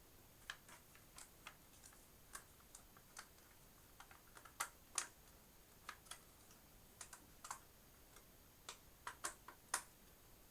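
Faint, irregular clicks and taps of plastic toolless hard-drive caddies being handled and fitted onto drives.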